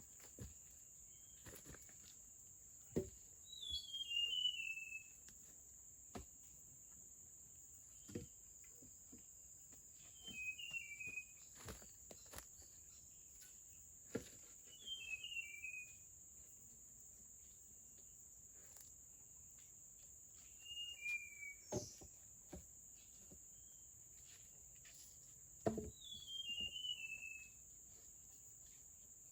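Forest ambience: a steady high-pitched insect drone, with a bird repeating a short descending chirping phrase five times, every five or six seconds. Scattered sharp knocks sound now and then.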